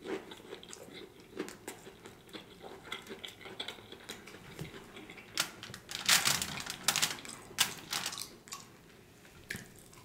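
Close-up chewing of fried salmon croquettes, with quick wet mouth clicks and smacks; a run of louder smacks comes a little past the middle.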